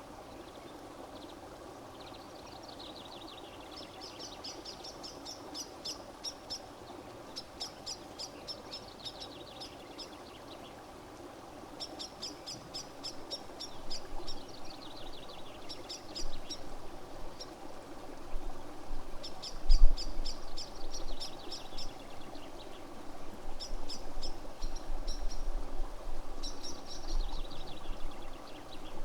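A songbird singing the same phrase over and over, about every three to four seconds: a run of quick high notes followed by a falling trill. Under it runs a steady hiss, and from about the middle on there are low rumbles, loudest about two-thirds of the way in.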